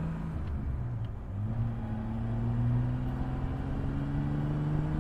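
Motorcycle engine running steadily; about a second and a half in, its note begins a slow, gentle climb.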